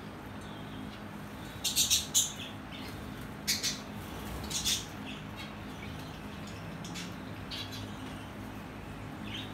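Lovebirds calling with short, high-pitched chirps and squawks: a loud cluster about two seconds in, more a little later, then fainter calls toward the end, over a steady low hum.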